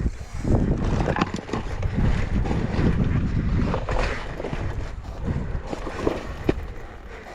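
Off-road enduro motorcycle engine revving unevenly as it climbs, with wind buffeting the microphone.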